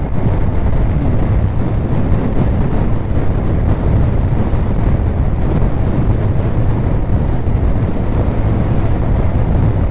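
Steady wind rush over the microphone of a Kawasaki Ninja 1000 motorcycle under way, its inline-four engine running at a constant speed underneath.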